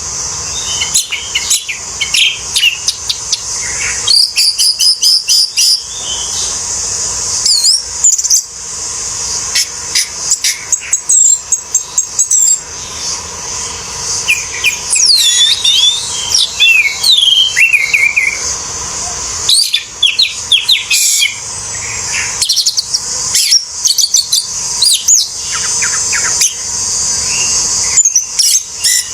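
Orange-headed thrush singing a long, rambling song of rapid chirps, trills and sliding whistles with short pauses, over a steady high hiss.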